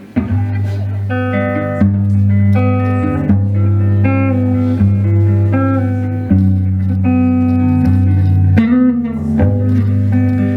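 Instrumental intro of a song: a melody of plucked guitar notes over low sustained bass notes, kicking in suddenly.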